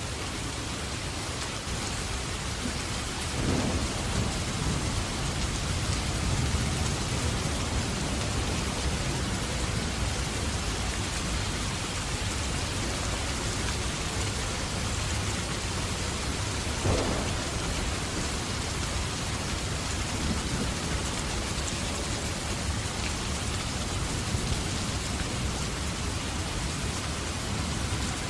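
Steady heavy rain falling, with low rumbles of thunder rolling underneath from a few seconds in and two brief sharp cracks, one near the start and one about midway.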